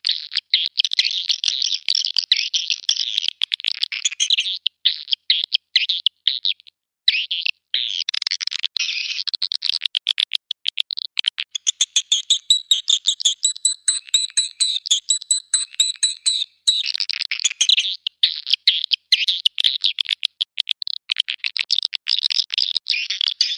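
Swiftlet calls, a recorded lure track of the kind played to call swiftlets: a dense run of rapid, high chirps and chittering. There are a few short breaks a little over halfway into the first third, and in the middle steadier high twittering tones run for about four seconds.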